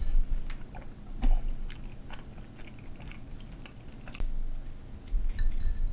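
Close-miked chewing of soft, chewy hand-cut perilla-seed kalguksu noodles, with scattered wet clicks and smacks of the mouth.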